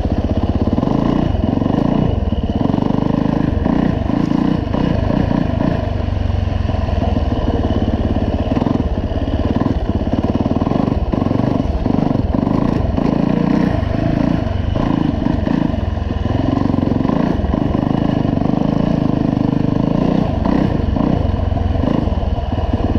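Yamaha YZ450F four-stroke single-cylinder dirt bike engine being ridden in low gear at low revs, lugging, with its note rising and falling as the throttle is worked.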